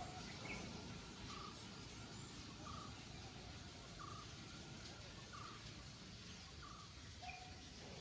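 A bird calling with short, evenly repeated notes, about one every second and a half, faint over a low outdoor rumble and hiss.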